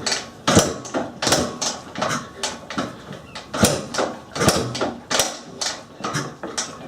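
Repeated irregular clunks and clicks from the kick-start of a 1980 Husqvarna CR390 two-stroke being kicked over, with no engine firing.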